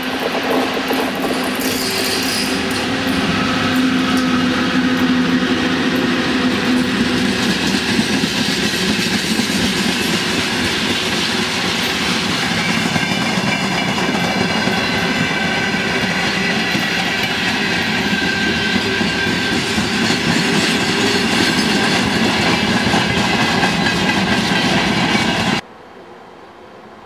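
VL10U electric locomotive and its freight train passing close by on curved track: a loud, steady rumble and clatter of wheels over the rails, with high steady ringing tones over it from about twelve seconds in. The sound cuts off suddenly near the end, leaving only a faint hiss.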